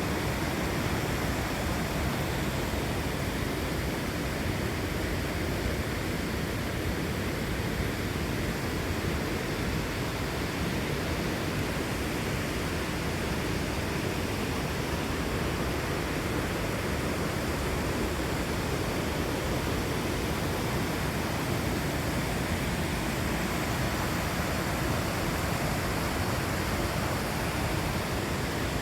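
Torc Waterfall's water rushing in a steady, unbroken roar.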